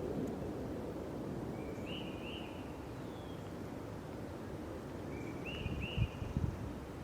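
A bird calling outdoors: two groups of short rising chirps, about three seconds apart, over a steady low outdoor rumble, with a few low thumps about six seconds in.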